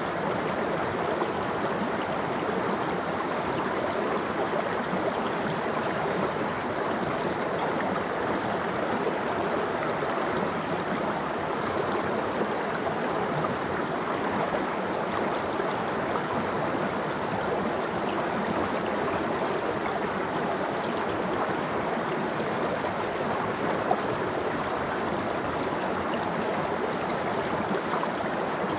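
A mountain stream flowing steadily over rocks: an even rush of running water.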